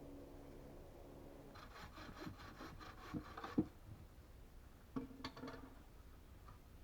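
Hand saw cutting wood in a quick run of short strokes for about two seconds, with a few knocks of wood among them, then a brief second run of strokes.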